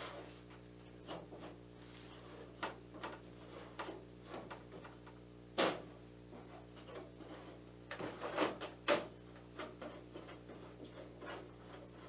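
Scattered clicks and knocks of hands handling the snow machine's parts, fitting and locking its handle with plastic-handled side screws. The sharpest knock comes about five and a half seconds in, and a few more come close together around eight to nine seconds, over a steady low hum.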